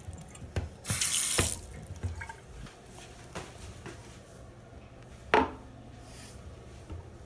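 Water running in a short hissing spurt about a second in, then a few knocks and clicks in a small tiled restroom, the loudest about five seconds in.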